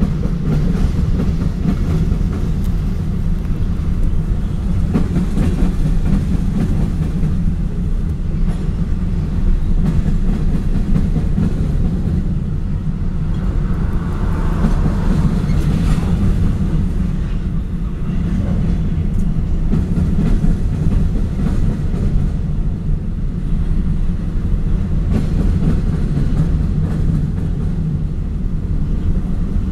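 Covered hopper cars of a freight train rolling past close by: a loud, steady rumble of wheels on rail, with faint irregular clicks from the wheels over the rail joints.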